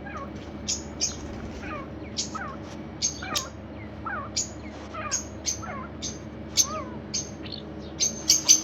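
Birds chirping: many short, high chirps, thickest near the end, mixed with lower down-slurred whistled notes. A steady low hum runs beneath.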